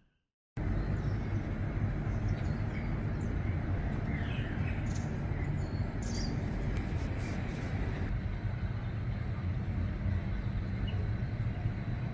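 Steady outdoor rushing rumble with a few short bird chirps about four to seven seconds in.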